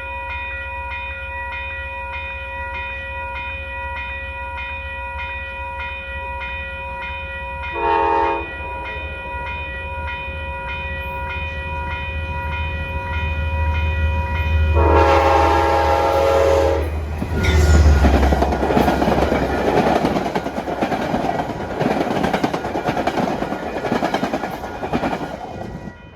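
Metro-North commuter train approaching with its bell ringing steadily, sounding a short horn blast about eight seconds in and a longer one around fifteen seconds, then passing close by with loud wheel and rail noise.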